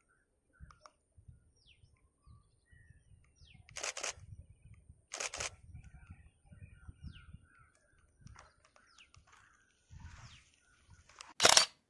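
Small birds chirping in short, high, falling notes scattered through the clip, over faint low rumbles and a faint steady high whine. Two short, loud rushing noises come about four and five seconds in, and a loud bump of camera handling near the end.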